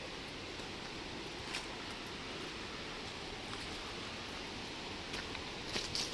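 Steady rushing outdoor noise with footsteps crunching on dry leaf litter, a few short crackles about a second and a half in and a cluster near the end.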